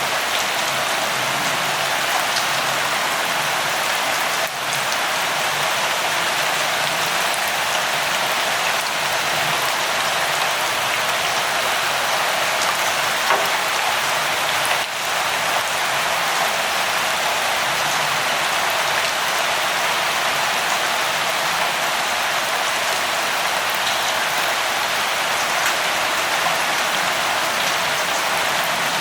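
Light rain falling steadily: a dense, even hiss with scattered faint drop ticks, dipping briefly twice.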